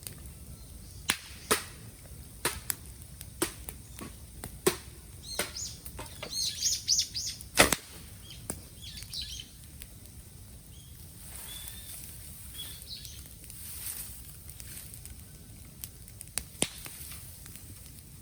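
Bamboo burning in a bonfire: irregular sharp pops and snaps over a faint steady hiss, with a quick run of sputtering crackles in the middle and the loudest snap just after it.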